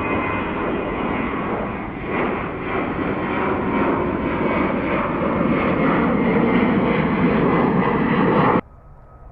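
Jet airliner engines at takeoff power on a departure, loud and growing louder, with a few steady whining tones over the noise. It cuts off suddenly near the end, leaving a much quieter background.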